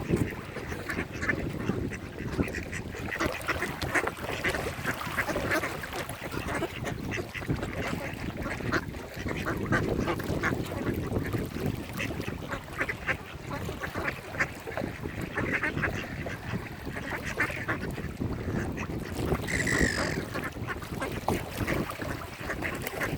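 A flock of mallard ducks quacking and chattering, with many short calls overlapping throughout. Near the end comes one brief high-pitched call.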